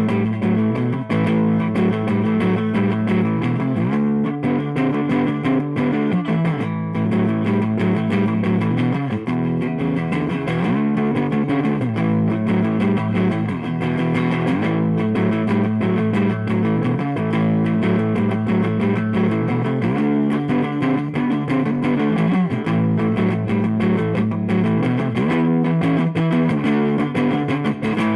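Electric guitar with Lindy Fralin Broadcaster pickups, neck and bridge pickups mixed, played through a Fender Blues Deville 212 tube amp: continuous notes and chords with string bends.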